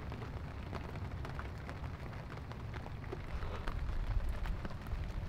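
Steady rain falling, heard as many small drop ticks over a low rumble.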